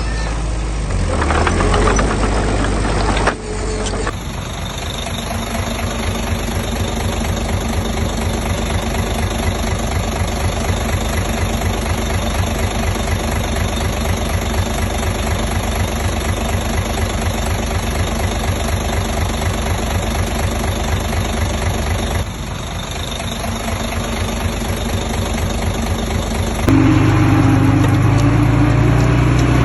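Diesel engine of heavy construction machinery running steadily with a fast, even knock. The sound changes abruptly about 4 s in and again about 22 s in, and grows louder with a low hum near the end.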